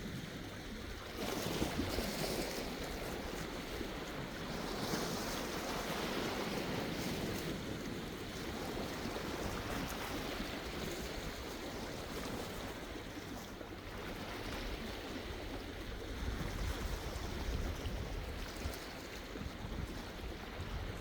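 Sea waves washing in, swelling and falling back in surges. Wind rumbles on the microphone near the end.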